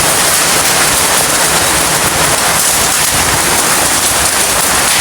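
Heavy rain mixed with hail falling steadily, a loud, even hiss of drops and pellets striking surfaces.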